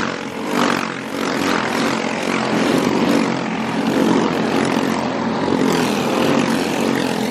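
Several Briggs & Stratton four-stroke kart engines running on the track in a steady, continuous drone.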